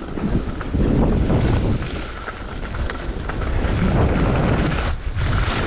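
Wind buffeting the microphone of a camera on a moving skier: a loud, rough rushing noise that comes in abruptly as the run starts and dips briefly near the end.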